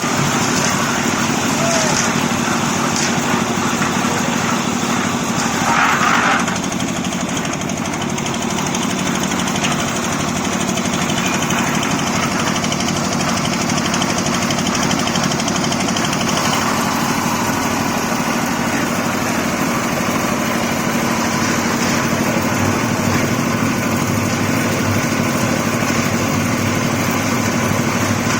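A small engine running steadily, with a brief louder noise about six seconds in.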